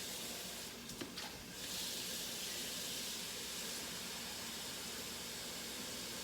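Liquid added to a hot pan of sautéed garlic, onion and tomato, sizzling with a steady hiss that starts a little over a second in, after a couple of light knocks of cookware.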